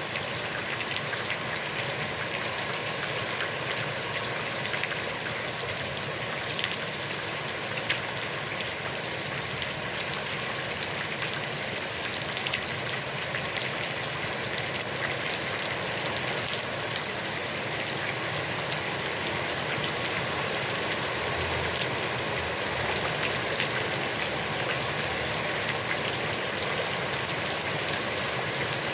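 Heavy rain falling on a pond's water, a steady dense hiss of many drops with scattered sharper drop hits.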